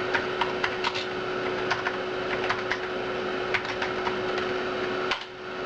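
Typing on the Amiga 4000's keyboard: a run of irregular keystroke clicks. Under it runs the steady hum and whine of the Amiga 4000's hard drive and power supply.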